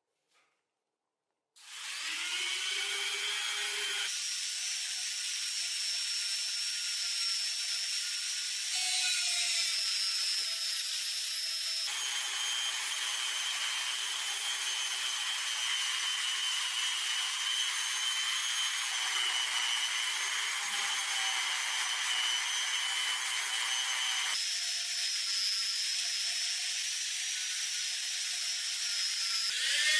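A handheld power tool running steadily against metal, with a whine over a grinding, rubbing noise. It starts after a second and a half of near silence, and its pitch jumps to a new steady note several times.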